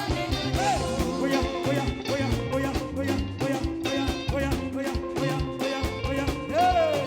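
Live praise band playing upbeat gospel music with a steady, quick drum beat and bending lead-instrument lines over it.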